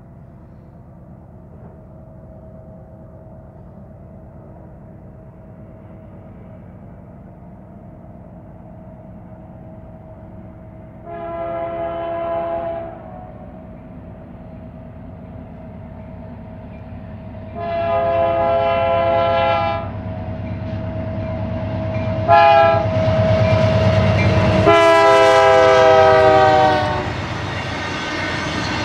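BNSF GE C44-9W diesel locomotive leading an intermodal train: its engine rumble builds as it approaches while its air horn sounds the long, long, short, long grade-crossing signal, the last blast dropping in pitch as the locomotive passes. Then the steady rolling noise of the intermodal cars going by.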